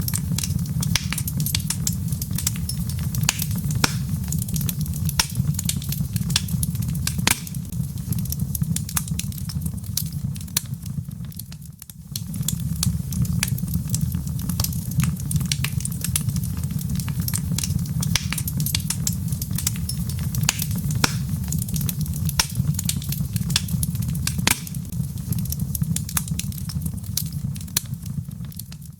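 Wood log fire crackling, with frequent sharp pops and snaps over a steady low rumble. The sound briefly dips about twelve seconds in.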